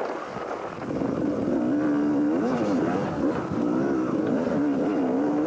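250cc two-stroke motocross bike engine revving hard on the throttle, its pitch rising and falling again and again, held steady for about half a second around two seconds in.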